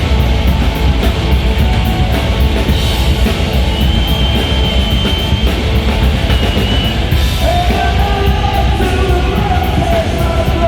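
Rock band playing live, loud and dense, with a driving drum kit under a full band sound.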